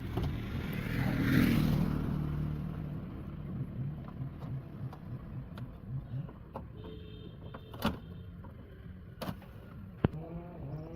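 Old Honda CR-V's engine running: it comes in suddenly, swells to a peak about a second and a half in, then settles to a steady idle, with a few sharp clicks near the end.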